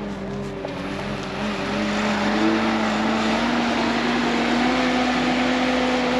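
A farm machine's engine running steadily, speeding up slightly and getting louder about a second and a half in.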